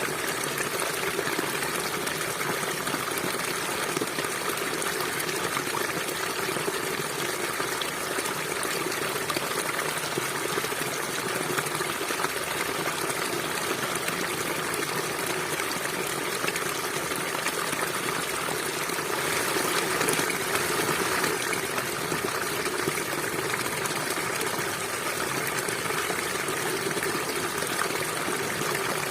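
Stream water running steadily over rocks, an even rushing and trickling that swells a little about two-thirds of the way through.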